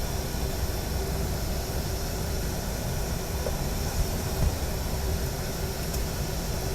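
Steady rushing cabin noise in a Boeing 737 cockpit in flight, made by airflow and air-conditioning, with a faint steady hum under it.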